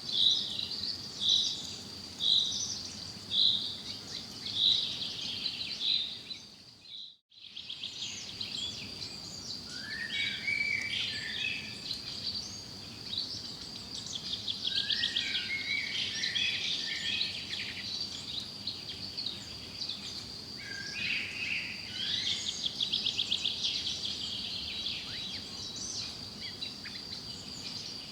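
Wild forest birds singing: one bird repeats a single high note about once a second, the sound fades out briefly about seven seconds in, then several birds take over with varied chirps and fast trills. A steady thin high tone runs beneath.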